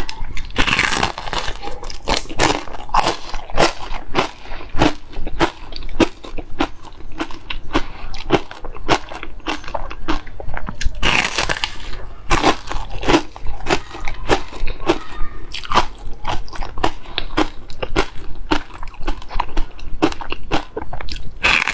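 Close-miked chewing of braised pork intestine: rapid, irregular wet mouth clicks and smacks, with a few longer, louder smacking bursts about a second in, around the middle, and at the end.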